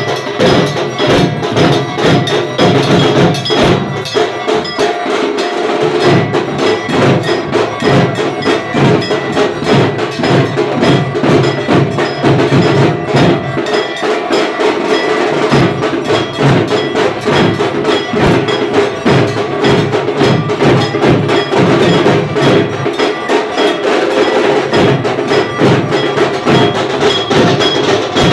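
Fast, unbroken percussion of the kind played at a Bengali puja: dhak drums beaten in a rapid steady rhythm with a bell-metal gong (kansar) clanging over them, its ringing tones held throughout.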